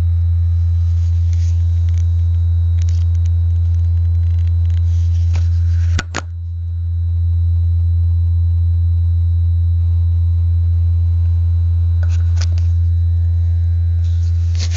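A steady, loud low-pitched vibrating buzz, like a phone vibrating on a table, from an unidentified source. About six seconds in it briefly drops away after a click and then swells back up. A few more clicks come later.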